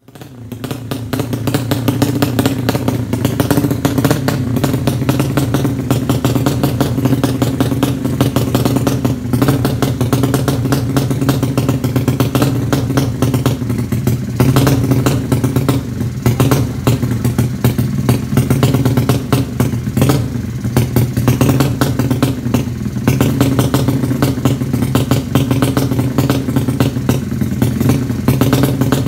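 Drag-race motorcycle engine running steadily at a fast idle, with a rapid, even exhaust beat and some mechanical clatter.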